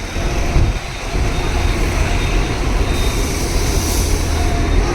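Steady low rumble of heavy road-vehicle engines and traffic noise.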